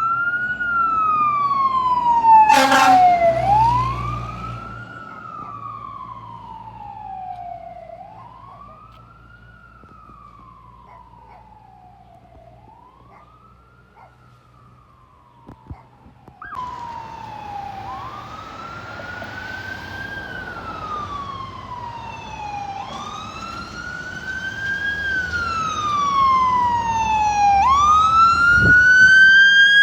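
Fire engine siren in wail mode: the pitch sweeps up quickly and falls slowly, repeating every three to four seconds, with a short loud blast about two and a half seconds in. The siren fades away; then, after a sudden cut, a siren wails again and grows louder toward the end.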